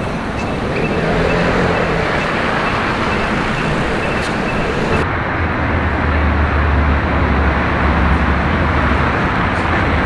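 Street traffic noise, steady and loud, with a vehicle's low engine rumble setting in about halfway through.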